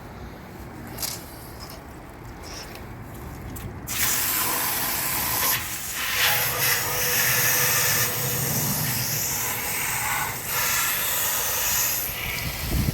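Water from a hose spraying into a motorcycle gas tank to rinse out CLR and rust debris, starting suddenly about four seconds in as a steady, loud rushing hiss. Before it, a few light clicks and handling noises.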